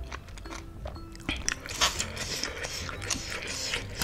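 Close-miked eating sounds: a mouthful of spicy seblak being chewed, with wet mouth noises and small clicks, busiest from about a second in to near the end.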